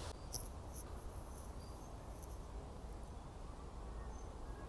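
Quiet outdoor background: a low steady rumble with scattered faint, high-pitched chirps.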